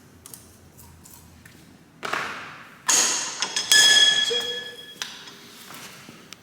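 A scrape, then a metal part struck twice, ringing with a clear ping that dies away over about a second.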